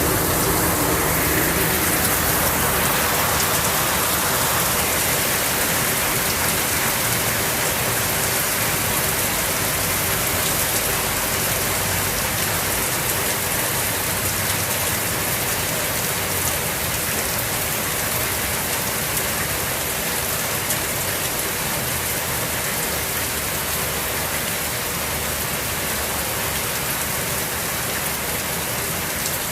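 Heavy rain pouring steadily, drumming on surfaces.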